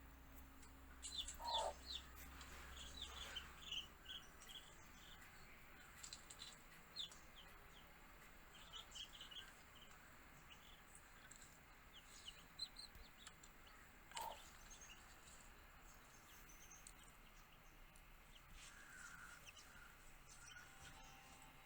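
Baby chicks peeping: faint, short, high chirps in scattered clusters, with a couple of lower, longer calls, one about a second and a half in and one about fourteen seconds in.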